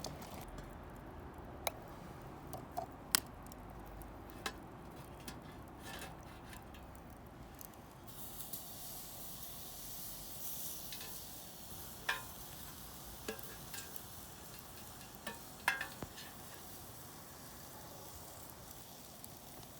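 Food sizzling on a grill over a wood fire, with scattered sharp pops and crackles; a higher hiss comes in about eight seconds in.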